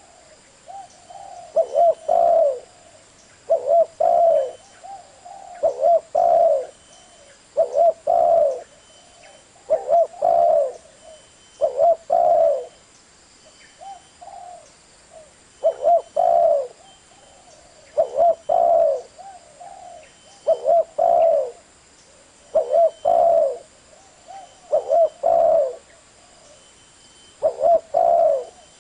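Spotted dove cooing: short phrases of two or three low coos, about one phrase every two seconds, with softer coos in between.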